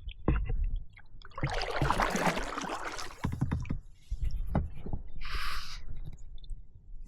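Kayak paddle strokes splashing water: a longer splash about one and a half seconds in and a shorter, higher one about five seconds in, with low knocks and rumble from the boat between them.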